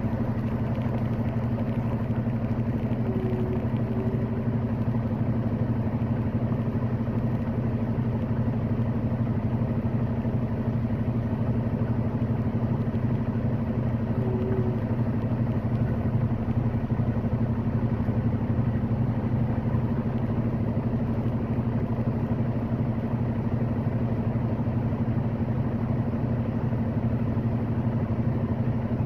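Semi-truck's diesel engine and road noise heard from inside the cab while driving, a steady low drone that holds even throughout.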